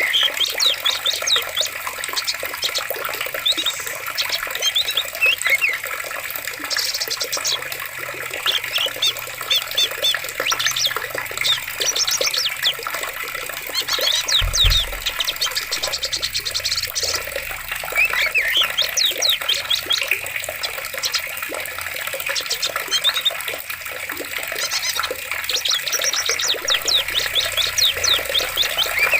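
Steady flowing water with many birds chirping over it in short, quick calls. A brief low thump about halfway through.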